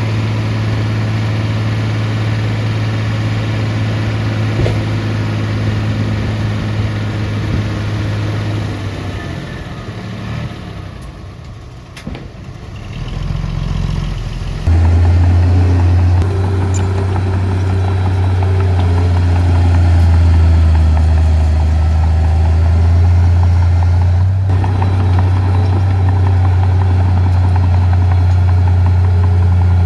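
Heavy diesel earth-moving machinery running steadily. The engine sound fades for a few seconds near the middle, then about fifteen seconds in it switches abruptly to a louder, deeper engine running.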